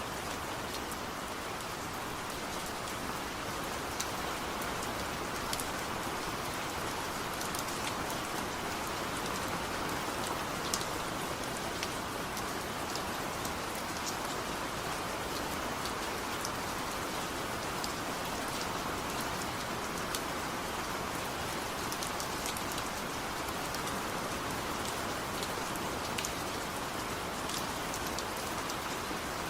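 Steady rain falling on a surface, an even hiss with scattered sharp drop ticks a few times a second; no thunder.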